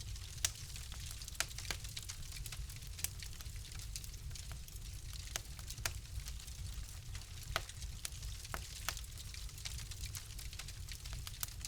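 Fire crackling in a fireplace: irregular sharp pops and snaps, a few every second or two, over a steady low rumble and soft hiss.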